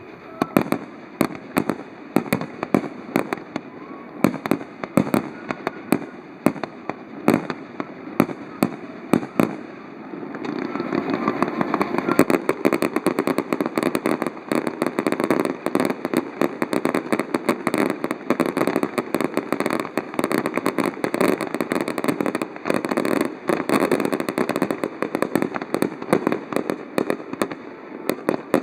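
Fireworks display: shells bursting in a string of sharp bangs. About ten seconds in it thickens into dense, continuous rapid crackling that carries on to the end.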